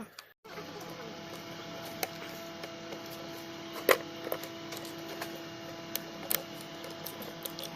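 A steady hum with sharp clicks and taps scattered through it, about a dozen, the loudest about four seconds in, as engine parts and tools are handled.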